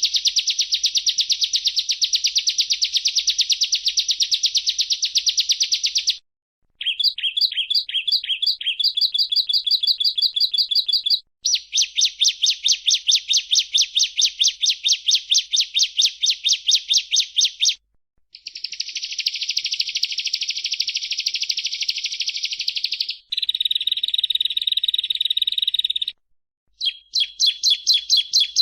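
Bar-winged prinia (ciblek) singing: fast runs of rapidly repeated high chipping notes, in several bouts broken by brief silences, the phrase changing from one bout to the next.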